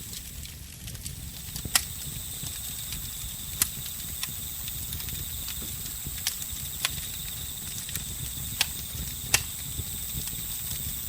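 Campfire crackling, with sharp wood pops every second or two over a low steady rumble of burning. Crickets keep up a continuous high trill behind it.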